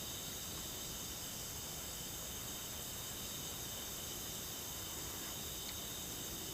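Steady night chorus of insects, crickets among them, several high continuous trills over a soft background hiss.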